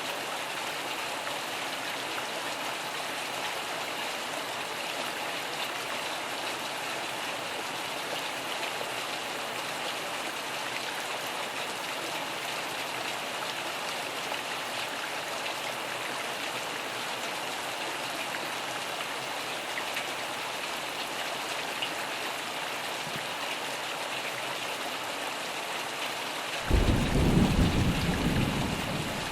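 Steady heavy rain hissing. Near the end a sudden low clap of thunder breaks in and rumbles on, louder than the rain.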